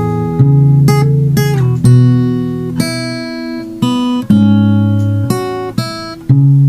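Music: an acoustic guitar playing a slow melody of plucked notes, a new note every half second to a second, with a few notes slid into.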